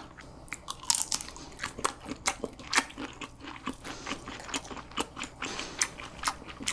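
Close-miked chewing of crunchy food, a dense run of irregular sharp crunches and crackles.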